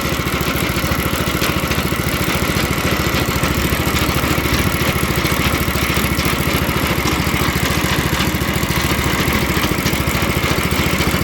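Small pull-start petrol engine running steadily at an even speed, with a regular firing beat.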